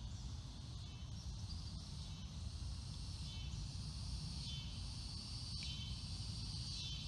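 Evening chorus of insects, a steady high pulsing chirr, over a constant low rumble.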